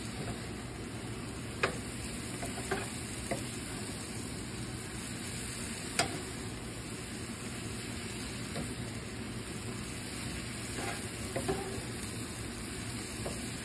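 Chopped ham, spinach and tomato sizzling in a hot skillet as a wooden spatula stirs and turns them, with a few sharp taps of the spatula against the pan.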